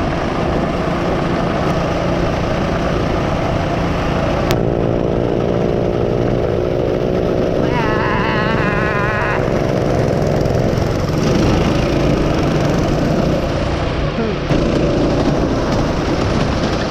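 Small engine of a mini bike or go-kart running at steady speed under a heavy low rumble. Its tone is clearest between about 4 and 11 seconds in.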